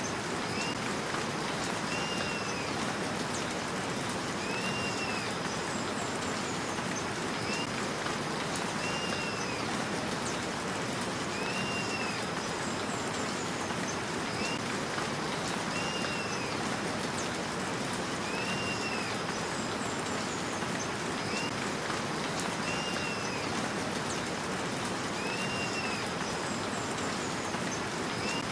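Steady rain with a bird calling over it: a short arched note repeated about every two seconds, with higher falling twitters now and then.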